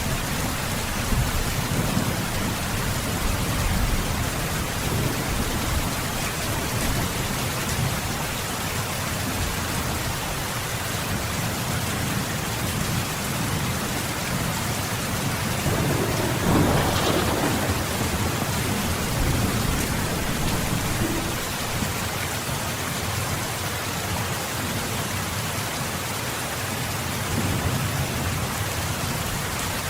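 Steady rain falling, an even hiss of drops over a low rumble, swelling briefly a little past the middle.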